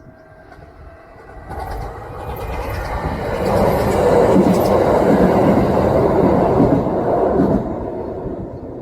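Kintetsu electric train passing at speed, its wheels clattering over the rail joints. It swells for a few seconds, stays loud for about four seconds, then fades as it goes away.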